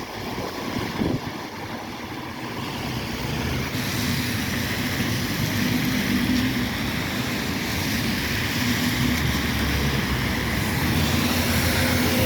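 Diesel engine of a Scania N270UD OmniCity double-decker bus running. It grows louder about three seconds in, then holds a steady hum.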